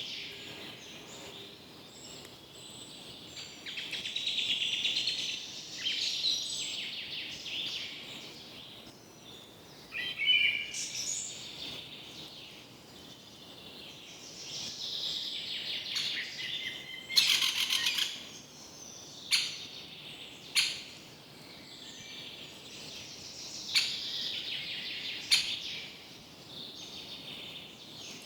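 Several birds calling and chirping, with repeated short, sharp calls in the second half.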